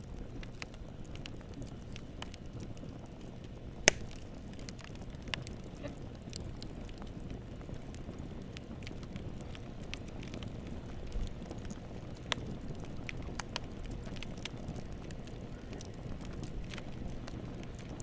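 Wood fire in a fireplace burning with a steady low rush and scattered crackles and pops, one much louder sharp pop about four seconds in.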